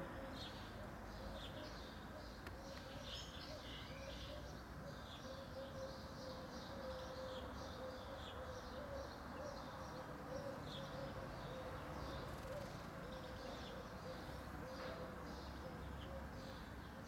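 Small birds chirping, short high calls coming irregularly throughout, over a faint steady tone and low outdoor background noise.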